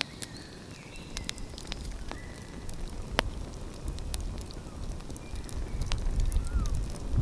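Wood fire crackling with irregular sharp pops, over a low rumble that builds from about a second in and is loudest in the second half.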